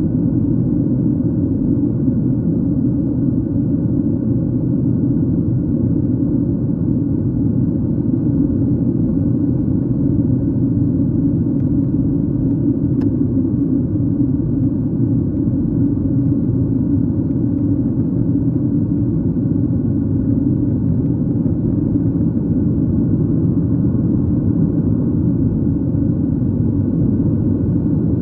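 Steady cabin noise of a jet airliner in flight, heard at a window seat: an even low rumble of engines and rushing air.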